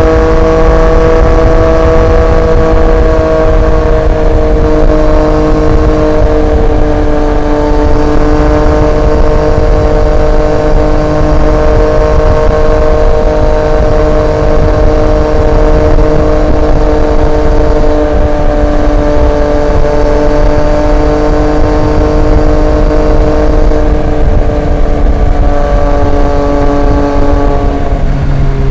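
Triumph Street Triple 765 RX's inline three-cylinder engine through an SC Project S1 exhaust, cruising at a steady speed with the engine note easing slightly lower over the first few seconds and then holding, over a constant low wind rumble.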